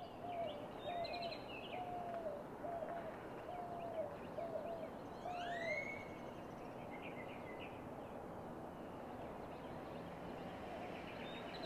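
Birds calling over a steady background hiss. A low call is repeated about seven times in the first six seconds, each note dropping in pitch at its end, mixed with higher chirps and a single rising whistle about five seconds in.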